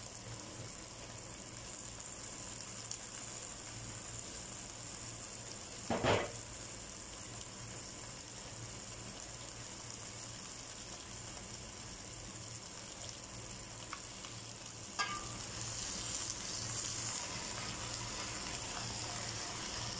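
Pressure-cooked beef shank pieces sizzling as they sauté in a pot with onions and aromatics, a steady sizzle. A sharp clatter comes about six seconds in, and after a knock about fifteen seconds in the sizzle grows louder as a spoon stirs the meat.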